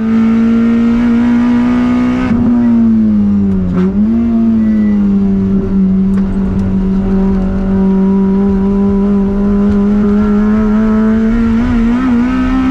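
Toyota MR2's swapped 2ZZ four-cylinder engine running hard at high revs under load, its pitch dipping briefly about two and four seconds in, then holding steady and rising a little near the end.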